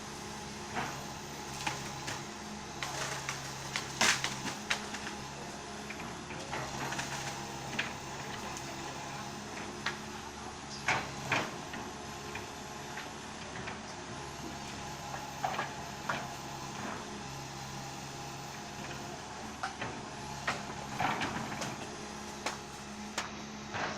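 Komatsu hydraulic excavator's diesel engine running steadily under work, with irregular sharp cracks and clanks throughout.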